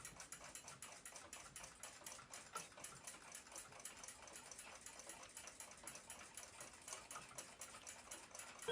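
Faint, rapid, even ticking of a clock.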